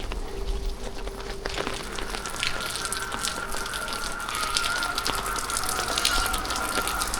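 Rain falling, a steady hiss with a dense patter of drops. A faint steady tone sits underneath, moving up in pitch about two seconds in.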